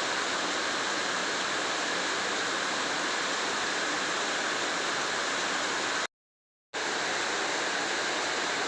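Rain falling steadily, an even hiss with no separate drops standing out; it cuts out completely for about half a second around six seconds in, then resumes unchanged.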